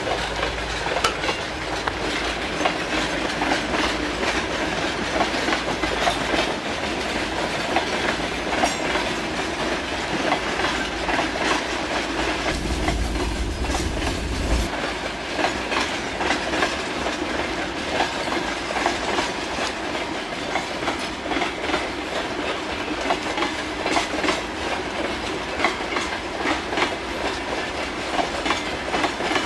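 Freight train wagons rolling past, their wheels clicking steadily over the rail joints over a continuous rumble of the train. A deeper low rumble underlies the first half and drops away about halfway through.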